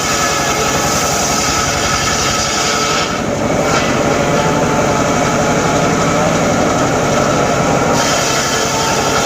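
Homemade circular saw running steadily while cutting teak timber, with a brief dip in the high hiss about three seconds in.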